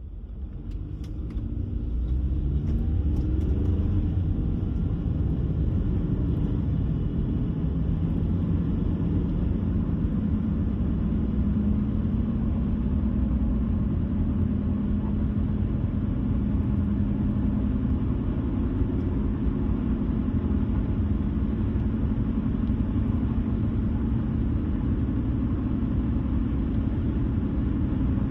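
Car driving on the road, a steady low rumble of tyres and engine that builds over the first two seconds as it gets up to speed, then holds level.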